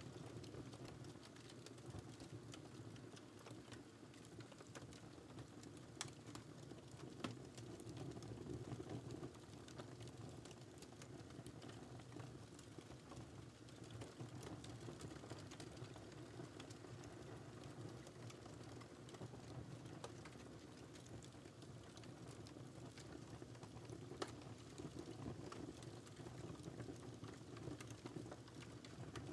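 Wood fire crackling faintly: a steady low rumble of burning with many small crackles, and a few sharper pops, one about six seconds in, one about seven seconds in and one near the end.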